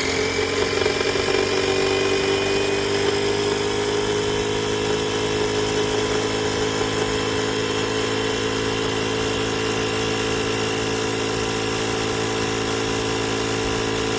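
Portable 12V tire inflator's compressor running with a steady mechanical hum. Its pitch settles slightly lower over the first couple of seconds, then holds.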